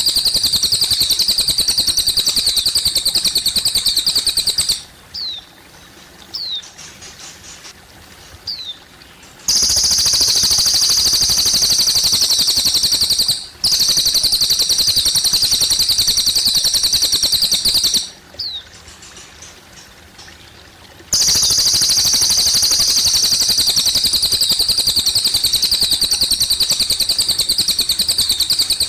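Cililin bird singing long, high, very rapid trills that last several seconds each and are broken by short pauses. In the pauses, faint thin chirps and gently trickling water can be heard.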